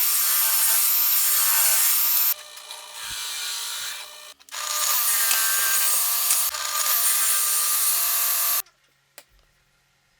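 Power tool working wood: a loud, steady run of about two seconds, a quieter stretch, then a second run of about four seconds that cuts off suddenly.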